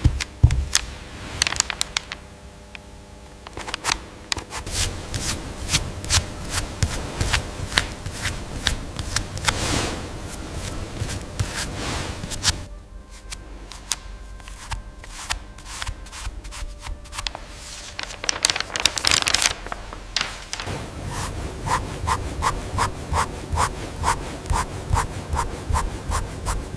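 Hand scraping, scrubbing and sanding on a hard surface: many short rubbing strokes that change pace several times, ending in a run of even, quick strokes about three a second.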